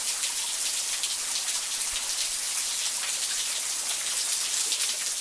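Steady rain falling, with many close individual raindrops pattering.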